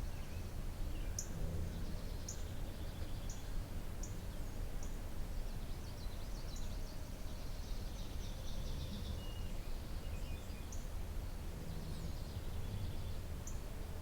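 Several songbirds calling and singing: short high chips repeating about once a second, over longer twittering trills, with a steady low rumble underneath.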